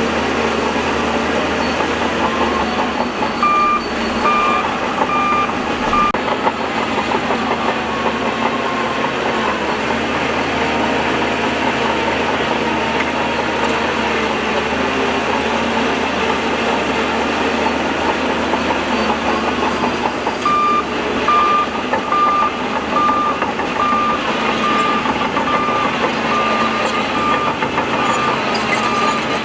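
Heavy earthmoving machinery running steadily with a reversing alarm beeping: a short run of about four beeps a few seconds in, then steady beeping, about one and a half a second, from about two-thirds of the way through.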